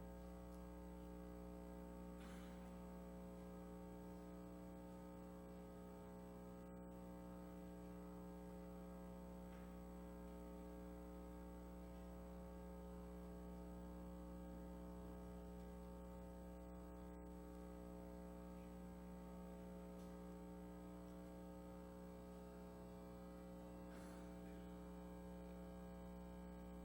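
Faint, steady electrical hum with a buzz of fixed overtones that never changes pitch, typical of mains hum in a sound system, with a couple of faint clicks.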